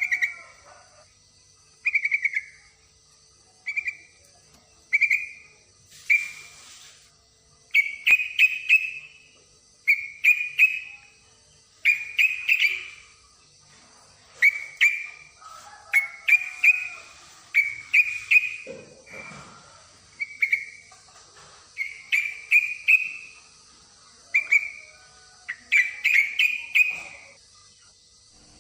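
Yellow-vented bulbul (trucukan) giving short, bubbly whistled calls about once a second, often in quick runs of two to four notes, presented as a female in breeding condition calling males. A steady high hiss runs underneath.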